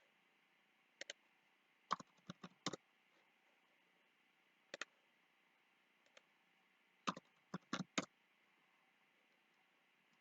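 Computer mouse clicking: about ten short, sharp clicks, some in quick runs, with gaps of a second or two, over a faint steady hiss.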